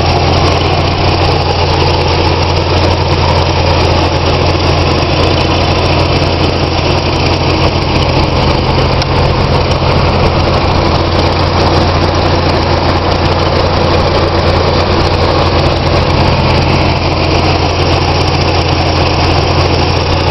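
1991 Mazda Miata's 16-valve four-cylinder engine idling steadily, heard with the hood open.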